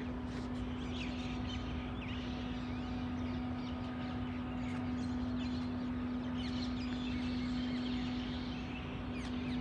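Birds chirping in many short calls, over a steady low hum.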